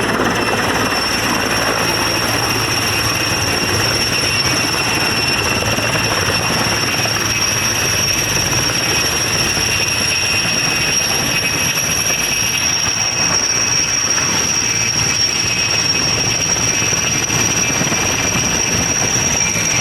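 Firefighting helicopter running steadily: a high turbine whine held at an even pitch over a dense, rushing engine and rotor noise.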